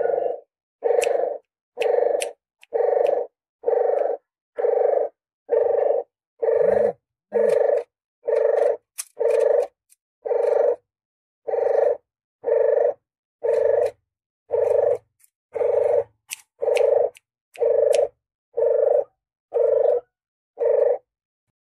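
Puter geni dove cooing: a steady series of short coos, about one a second, each roughly half a second long.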